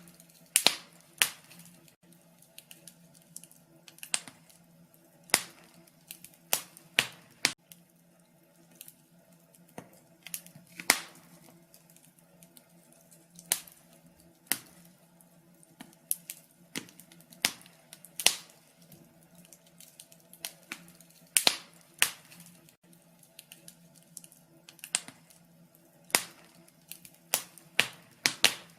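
Wood fire crackling in a fireplace: irregular sharp pops and snaps at uneven intervals, over a faint steady low hum.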